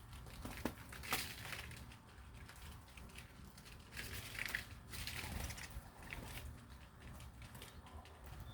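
Small birds moving about, making faint rustling and crunching sounds with scattered clicks.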